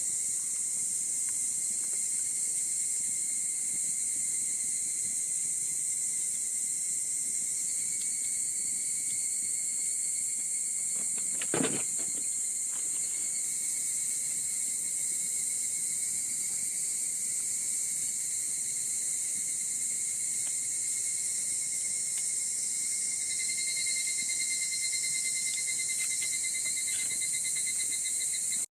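Insects chirping steadily in a continuous high chorus, with one steady trill that pulses faster over the last few seconds. A single sharp knock comes a little before halfway.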